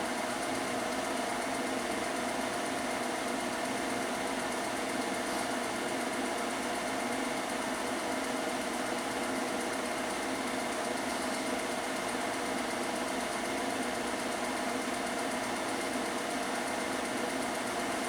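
Film projector running with a steady mechanical whirr.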